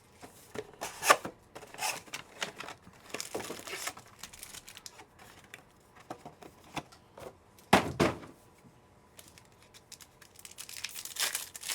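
Trading-card boxes and packs being opened by hand: plastic wrappers crinkling and tearing amid scattered taps and clicks, with a louder knock about eight seconds in.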